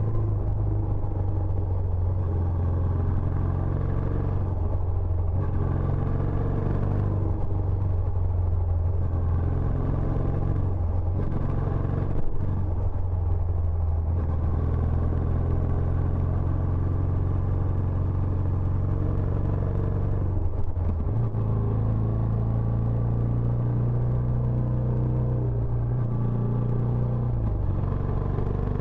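Benelli Imperiale 400's air-cooled single-cylinder engine running through its stock exhaust, a steady low rumble. Its pitch dips and then rises a little about twenty seconds in.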